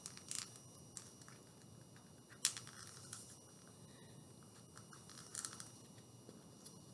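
Peanut butter being spread onto a cardboard paper towel tube: faint, scattered scrapes and sticky clicks, the loudest about two and a half seconds in.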